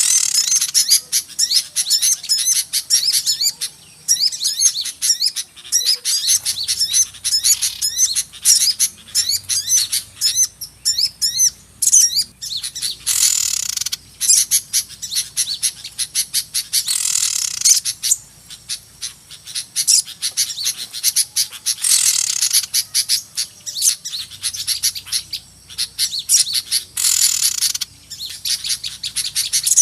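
Dense, noisy chorus of many small birds chirping and twittering rapidly: a lure recording of small-bird calls used to draw wild birds in. Harsh, hissy bursts of calling come every few seconds over the steady chatter.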